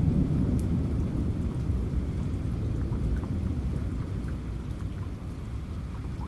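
Rolling thunder, a low rumble that fades over the few seconds, under falling rain with scattered raindrop ticks.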